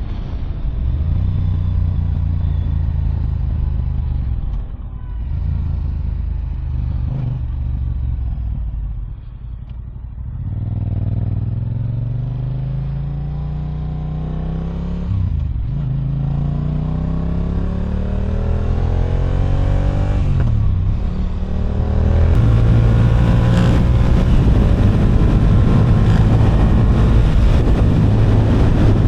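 Yamaha R7's parallel-twin engine through an Akrapovic exhaust, first running steadily at low speed, then pulling up through the gears: two long rising runs of revs, each cut by a brief drop at a gear change. Near the end wind rushes on the microphone as the bike picks up speed.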